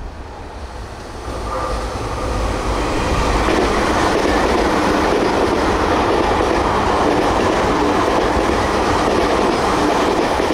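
Electric commuter train running past close by, a steady rumble of wheels on the rails that swells about a second in and then holds loud.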